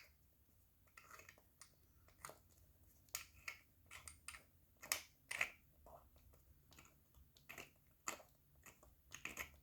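Faint, irregular small clicks and scrapes of metal watch parts being handled and worked back into place over a fresh gasket.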